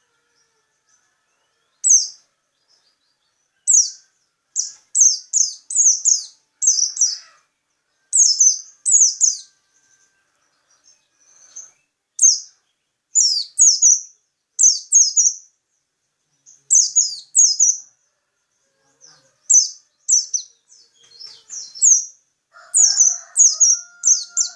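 A small songbird, the one known locally in Indonesia as 'burung peci', singing in quick bursts of high, down-slurred chirps, two to five notes at a time, repeated throughout. Near the end a lower call ending in a held note sounds under the chirps.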